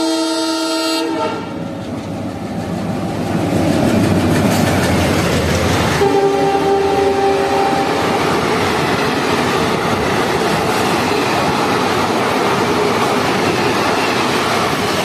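A train horn sounds and cuts off about a second in. Then an express hauled by a WDM-3D diesel locomotive passes at speed: the locomotive's horn sounds for about two seconds roughly six seconds in, followed by the steady clatter of the coaches rolling past.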